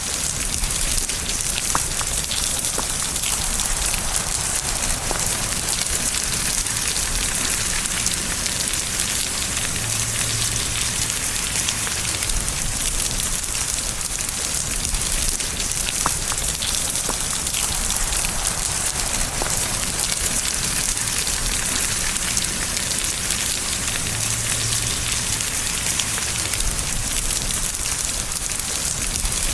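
Steady rain falling, a dense even hiss with individual raindrops ticking through it.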